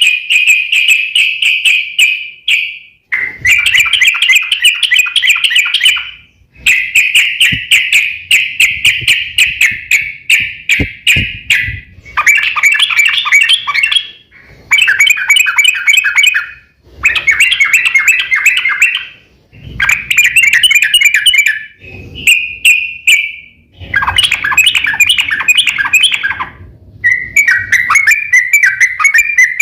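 Yellow-vented bulbul (trucuk) singing in rapid, chattering 'ropel' phrases, about ten of them, each a second to a few seconds long, with short pauses between.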